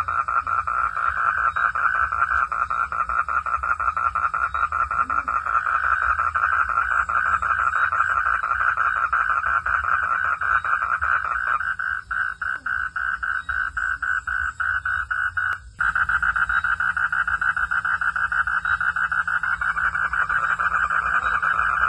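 Dense chorus of calling frogs, a fast steady pulsing trill, with crickets trilling higher behind. About twelve seconds in part of the chorus drops away, and near sixteen seconds the sound cuts out for a moment before the full chorus returns.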